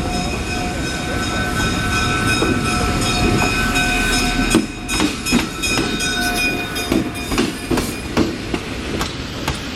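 A railway train rolling by: a low rumble with steady high-pitched ringing over it, then from about halfway a run of irregular clacks as the wheels pass over rail joints.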